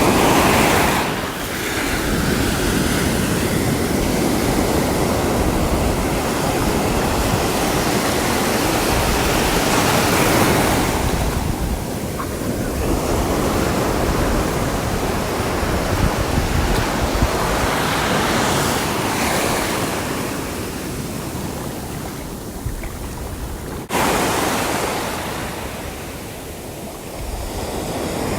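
Sea waves breaking and washing on the shore, the surf swelling and fading every several seconds, with a sudden louder break near the end.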